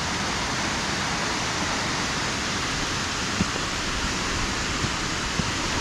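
Waterfall in full spate after heavy rain: a steady, unbroken rushing of water.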